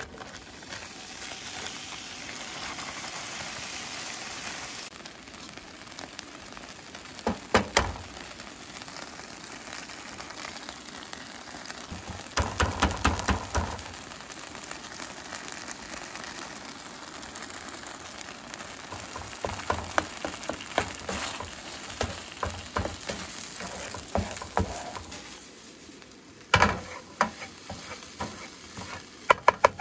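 Breakfast scramble and eggs sizzling in a frying pan on a portable butane camp stove. A spatula clicks and scrapes against the pan in several short clusters.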